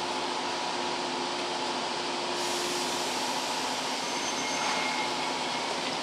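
A JR West 117 series electric train standing at the platform, its onboard machinery running with a steady hum and hiss. A brighter hiss joins about two and a half seconds in.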